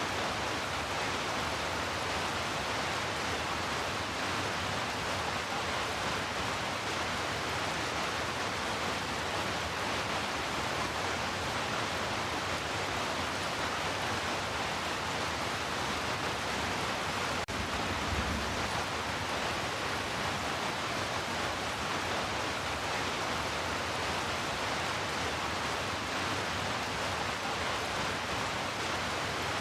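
Steady heavy rain, a dense, even hiss. About two-thirds of the way through there is one brief low thump.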